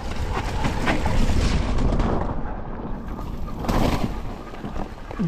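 A mountain bike rattling and clattering down a rough, wet trail, with wind buffeting the microphone and a few sharp knocks, the loudest nearly four seconds in.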